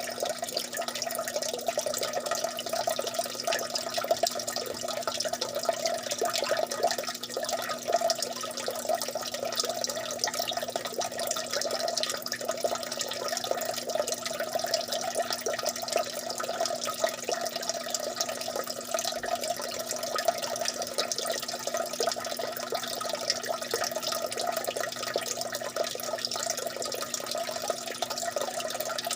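Water dripping and trickling steadily: a dense, unbroken patter of many small drops.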